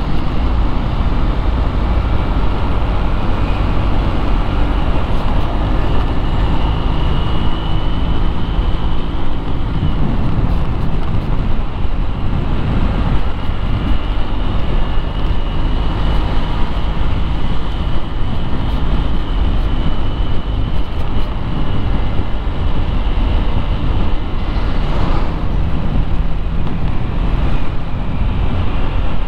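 Motorcycle riding in traffic: its engine running steadily under continuous road and traffic noise, with the engine note shifting briefly around ten seconds in.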